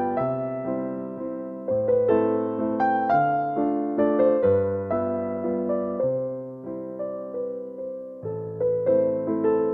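Slow piano music: single notes and chords struck, each ringing and fading, over low bass notes that change every second or two.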